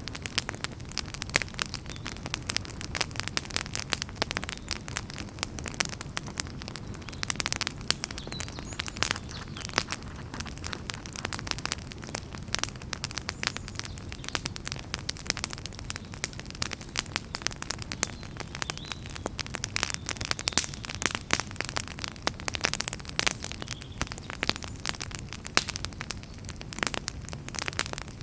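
Campfire burning, with dense, irregular crackles and pops of firewood over a steady low rumble of flames.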